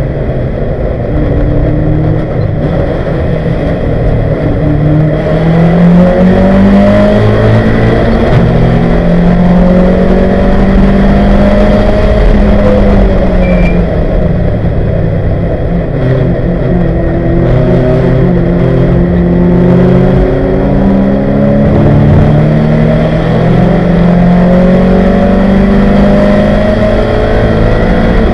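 A 1971 Ford Capri's 2.0-litre race engine, heard from inside the cabin, revving hard under acceleration. Its pitch climbs again and again, dropping back at each gear change. It gets louder after the first few seconds.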